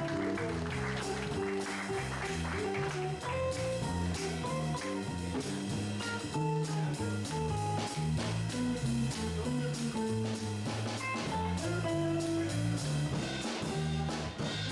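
Jazz trio of bass guitar, guitar and drum kit playing a jazz standard: a walking bass line steps through low notes under the guitar's single-note melodic line, with the drums keeping time on the cymbals.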